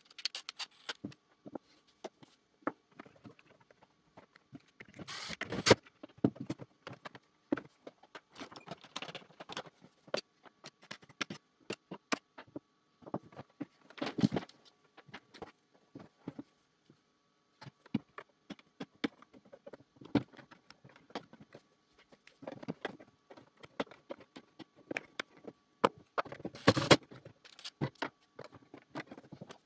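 Hands handling and taking apart a plastic Xiaomi robot vacuum: irregular clicks, taps and scraping of plastic parts, with a few louder clatters.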